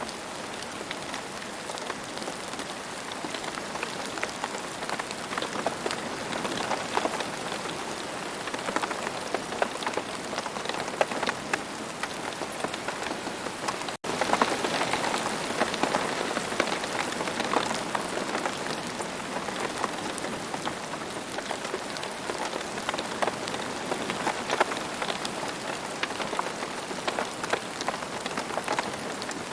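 Steady rain falling on the ground: a dense, even patter of countless raindrop hits. About halfway through it cuts out for an instant, then carries on as before.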